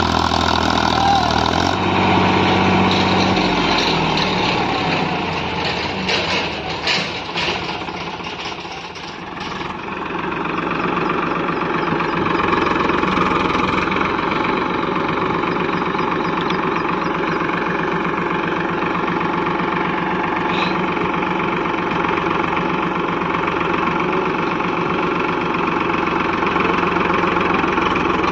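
Tractor diesel engine running, its note unsteady and dipping about nine seconds in, then running steadily.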